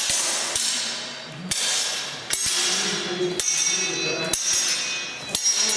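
Drum kit being played: cymbal crashes ring on after each hit, over drum strokes, about one or two strikes a second in an uneven pattern.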